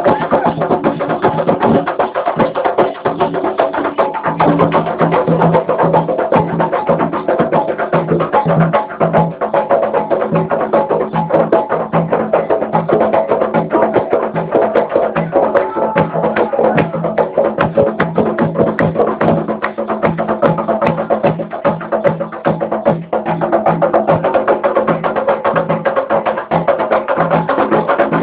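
Percussion-driven music with drums and a steady clicking beat over a continuous pitched layer, keeping an even rhythm throughout.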